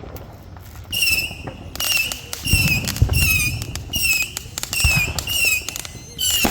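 Firework cake firing a rapid run of whistling shots, starting about a second in: about ten short high whistles, each dipping slightly in pitch, roughly two a second, with a few low booms among them.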